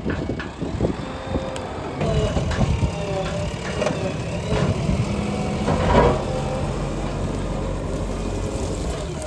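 Diesel engine of a JCB backhoe loader running, stepping up in level about two seconds in, with scattered knocks and a louder clank about six seconds in.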